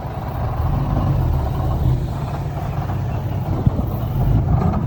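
Heavy diesel engine of an earthmoving machine running steadily, with a low drone and no break.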